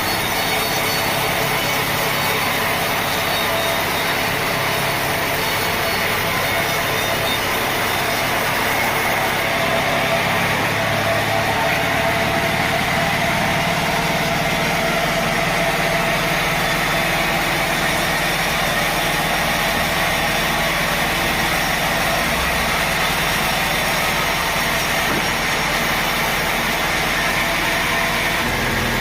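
Sawmill machinery running steadily: a loud, dense, even mechanical noise with a faint steady hum in it and no breaks.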